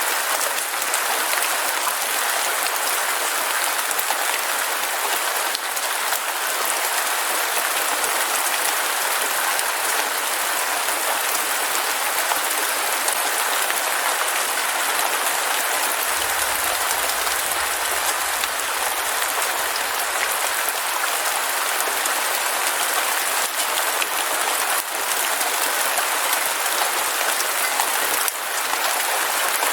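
Heavy rain falling steadily, a dense even hiss of drops. A faint low rumble comes in about halfway through and lasts a few seconds.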